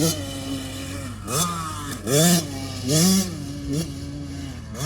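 Small off-road engine revving, its pitch rising and falling about four times as the throttle is opened and closed.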